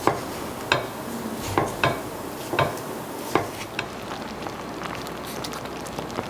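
A kitchen utensil stirring and clinking against cookware: a handful of sharp clinks in the first few seconds, then fainter ticks, over a steady soft hiss.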